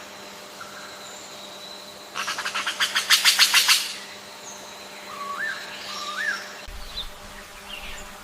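Bird calls: a fast rattling trill of about nine pulses a second, growing louder, about two seconds in, then two short rising chirps a little later.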